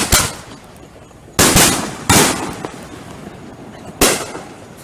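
Consumer fireworks going off: about five sharp bangs, two right at the start, a pair around a second and a half in, and one about four seconds in, each trailing off in a short echo.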